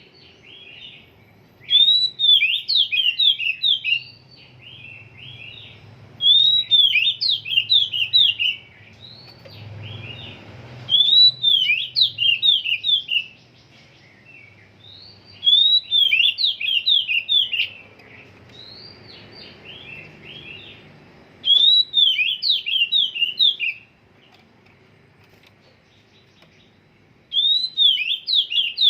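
Oriental magpie-robin (kacer) singing: about six loud phrases of quick rising and falling notes, each around two seconds long, repeated every few seconds with short pauses between. The bird's song is still at the stage of being set.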